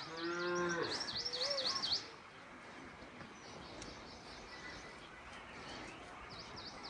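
A small bird singing a fast run of repeated high chirps, each sweeping down and back up, about five a second; the run lasts about two seconds and comes again near the end. A short held call with a clear pitch sounds under it in the first second.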